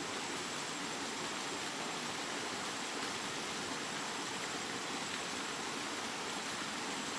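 Steady rain, an even hiss of rainfall with no single drops standing out and no change in loudness.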